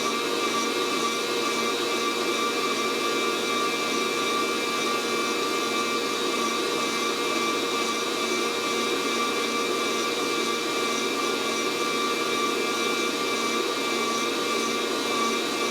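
Fresh Roast SR 800 hot-air coffee roaster running, its fan blowing heated air through the bean chamber as a steady whir with a constant whine over it. No cracking is heard: the beans, near 400 degrees, have not yet reached first crack.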